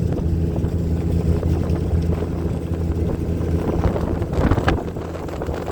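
Fishing boat's engine running steadily, a low even hum, with wind noise on the microphone.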